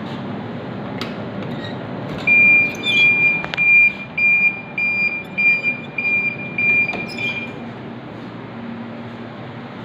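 An electronic beeper sounding a run of high, single-pitched beeps, about two a second for some five seconds, over a steady machine hum, with a few sharp clicks near the start and end of the beeping.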